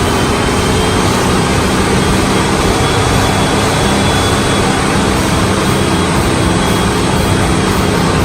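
Volkswagen engine running steadily, held at a constant speed so its sound can be heard.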